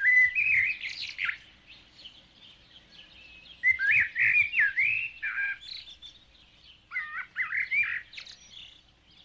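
Birds chirping: three bursts of quick whistled notes that slide up and down in pitch, with quieter calls between them.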